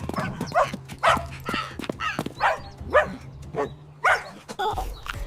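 A dog barking in a string of short, yappy barks, about two a second, each falling in pitch.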